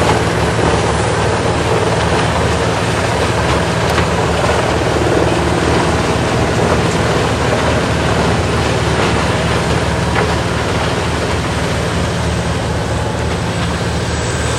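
Tracked horizontal wood grinder's diesel engine running steadily under load, with a dense, continuous noise of wood debris being ground.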